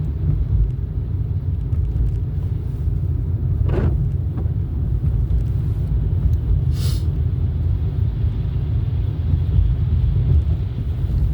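Steady low rumble of a car's engine and tyres heard from inside the moving car, with a brief hiss about seven seconds in.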